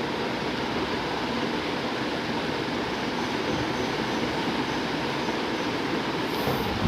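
Atomberg Renesa BLDC ceiling fan running, a steady rush of moving air.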